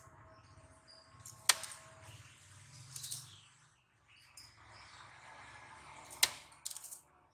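Oriental magpie-robin (kacer) between song phrases: two sharp loud clicks, about five seconds apart, and a few short, harsh high-pitched notes, over a low steady hum.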